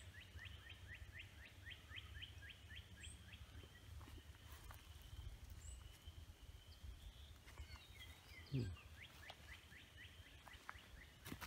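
A bird calls, faintly, in two fast runs of short rising notes, about four a second, over a low rumble. A single soft thump comes about eight and a half seconds in.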